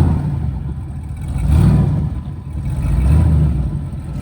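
Chevrolet C10 truck with a turbocharged 6-liter V8 running at road speed. Its drone swells and eases three times.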